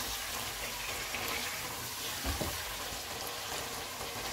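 Chicken masala with tomatoes sizzling steadily in hot oil in a pot over medium-high heat while a spatula stirs it, with a single knock a little past halfway. The masala is being fried until the oil separates.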